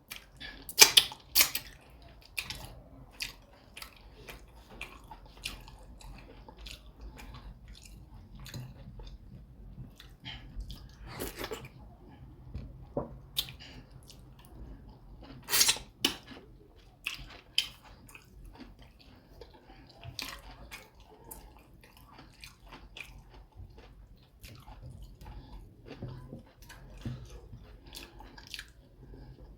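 Close-up eating sounds: a person chewing fufu with soup, with many sharp wet mouth smacks and clicks, loudest about a second in and again around the middle.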